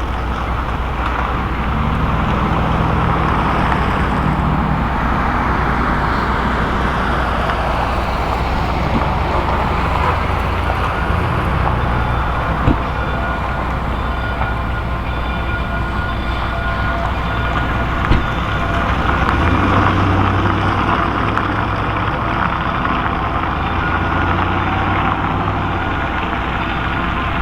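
Steam train running, a steady rumbling noise with faint low tones that come and go. Two short sharp clicks about five seconds apart.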